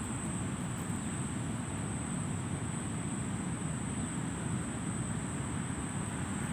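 Steady low background rumble at an even level, with a thin, steady high-pitched whine over it.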